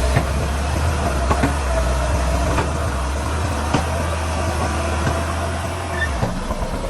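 Heavy diesel earthmoving machinery running steadily with a low rumble, with several sharp knocks scattered through it.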